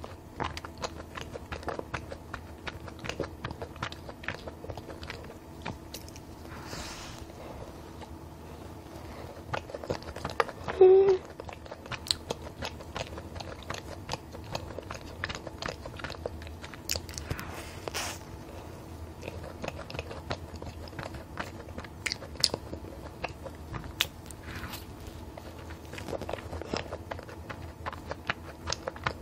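Close-miked chewing of a soft, sugar-dusted cream-filled donut: moist mouth sounds and soft clicks. About eleven seconds in there is a short hummed 'mm'.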